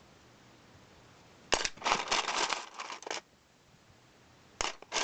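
Small model truck parts being handled, rustling and clattering in a burst of about a second and a half, then a shorter burst near the end.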